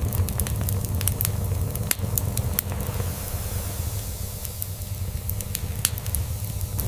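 Log fire crackling, with scattered sharp pops that come thickest in the first few seconds, over the steady low rumble of a cat purring.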